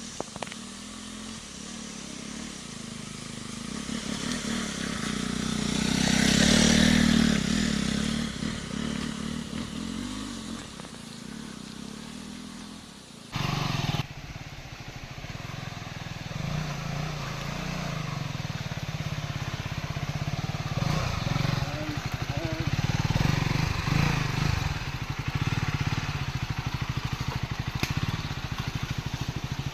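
Motorcycle engine running while the bike is ridden, swelling louder about six seconds in; the sound changes abruptly about thirteen seconds in, then the engine runs on steadily.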